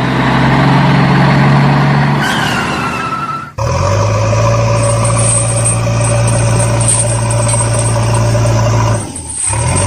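Motor vehicle engine running steadily, with a brief high squeal that falls in pitch a couple of seconds in. The sound breaks off abruptly about three and a half seconds in and again near the end, each time resuming as a steady engine note.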